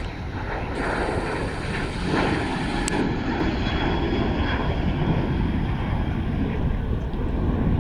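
Airliner engines running, a steady low rumble with a thin steady whine.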